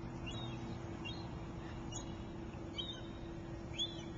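A small bird chirping repeatedly, short high calls about once a second, the loudest near the end. A steady low hum and outdoor background noise run underneath.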